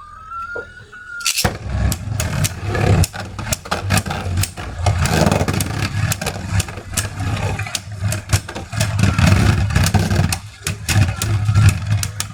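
Beyblade spinning tops launched about a second and a half in, then spinning and colliding in a plastic stadium: a continuous whirring rumble broken by many sharp clacks as the tops strike each other and the walls.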